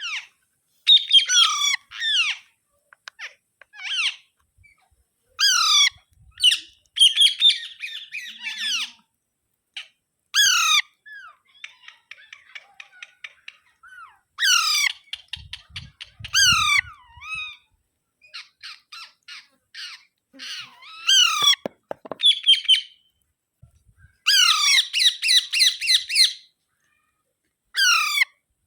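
Alexandrine parakeet squawking: loud, harsh calls that come singly every second or two, with two runs of rapid, fast-repeated calls. Between them it gives quieter, fast clicking chatter.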